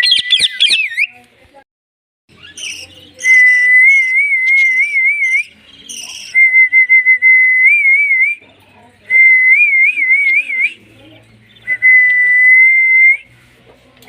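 Indian ringneck parrot whistling: a brief burst of fast chirps at the start, then four whistled phrases, each a held note that breaks into a quick warbling trill.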